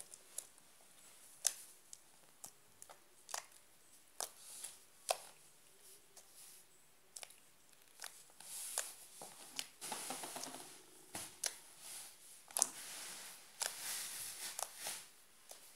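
Peach slime mixed with beads being worked by hand: scattered sharp clicks and pops, with two longer stretches of crackling in the second half.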